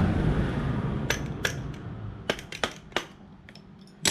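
Small metal engine parts and tools clinking and clicking on a workbench: a handful of sharp, separate clicks. They follow a rushing noise that fades away over the first two seconds.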